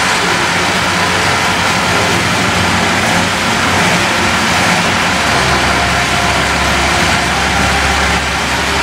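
1955 Chevrolet Bel Air's engine running steadily on a chassis dyno, with a deeper low rumble building from about five seconds in and easing near the end.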